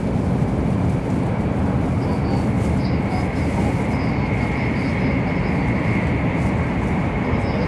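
Steady running noise inside the passenger car of an N700 series 8000 Shinkansen train at speed: a low, even rumble with a faint steady high whine over it.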